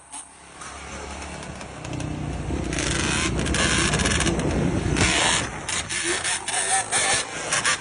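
Motorcycle engine running, getting louder over the first few seconds and then staying loud, with sharp clicks through it.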